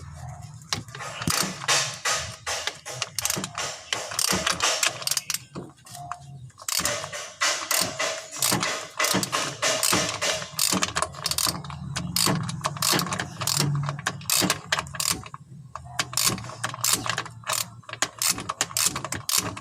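Socket ratchet wrench clicking rapidly in long runs as a bolt is worked loose, with two short pauses.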